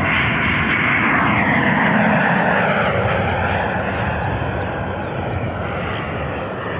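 Black Horse Viper RC jet's 120 mm 12-blade electric ducted fan flying past: a loud, steady jet-like rush with a thin fan whine that falls in pitch a couple of seconds in, then eases off a little as it moves away.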